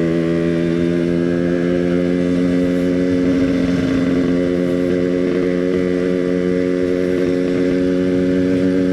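Yamaha RX-King two-stroke single-cylinder engine running steadily at an even cruising speed while the motorcycle is ridden.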